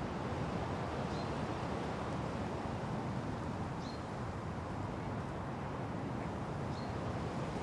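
Steady wind rustling through forest trees, with a small bird giving a short, high chirp three times, about every three seconds.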